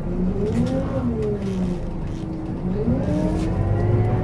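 A 2007 Scania K270UB city bus's DC9 diesel engine and ZF Ecomat automatic gearbox under way, with a pitched whine rising and falling. About two-thirds of the way in the pitch dips briefly, as at a gear change, then climbs steadily as the bus accelerates.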